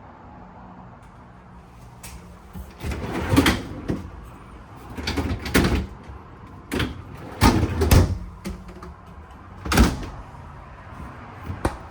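Stainless residential refrigerator doors and drawers being opened and shut: a string of knocks, thumps and short sliding scrapes, starting a couple of seconds in and recurring every second or two.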